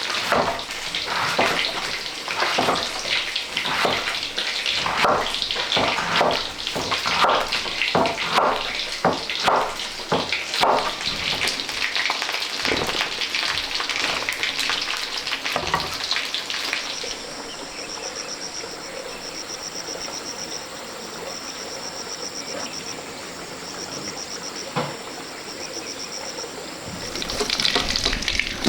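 Food frying in a pan, stirred with repeated scraping strokes for about the first fifteen seconds, then settling to a quieter, steady sizzle with a faint pulsing high buzz over it, before growing louder again near the end.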